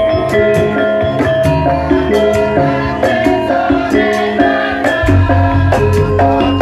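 Javanese gamelan music, instrumental: metallophones playing a melody of short ringing notes over steady drum strokes, with a deep low note coming in about five seconds in.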